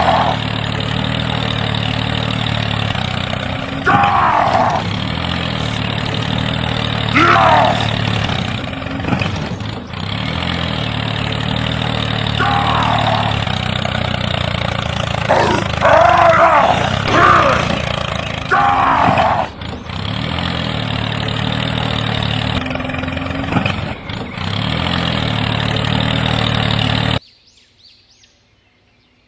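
An engine runs steadily, with short, falling, higher-pitched calls over it about six times. It cuts off abruptly near the end.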